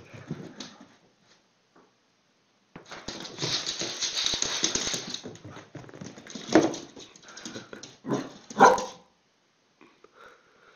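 A dog barking at a lemon slice held out to it: a rough, noisy stretch about three seconds in, then sharp barks, the loudest two about six and a half and eight and a half seconds in.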